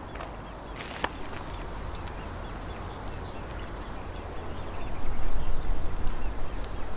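Lakeside outdoor sound: birds chirping faintly over a low rumble that swells and becomes loud about five seconds in, with a single sharp click about a second in.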